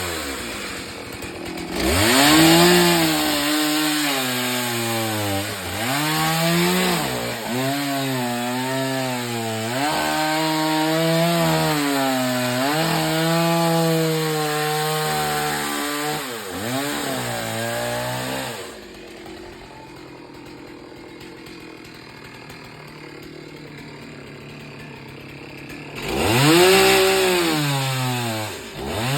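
Chainsaw cutting wood, its engine pitch sagging and recovering repeatedly under load for about sixteen seconds. It then drops back to idle, and revs up again near the end.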